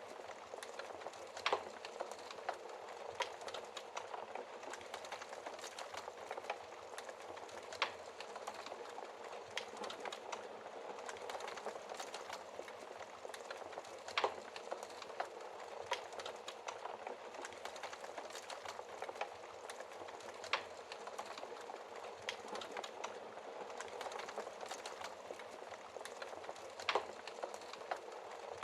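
Wood fire burning in a fireplace: a steady bed of crackling with scattered sharp pops of burning wood, the loudest pops about a second and a half in, about halfway through, and near the end.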